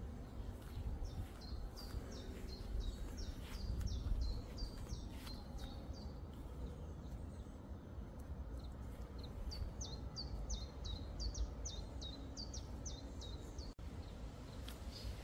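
A songbird singing two bouts of fast, repeated high notes that each slide downward, about four or five a second. The first bout starts about a second in and lasts around four seconds; the second starts about nine seconds in. A low, steady rumble runs underneath.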